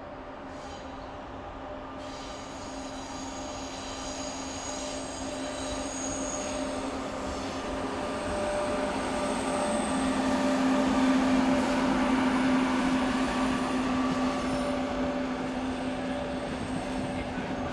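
A train running by at close range: a steady hum with faint high-pitched wheel squeal, growing louder toward the middle and easing off slightly near the end.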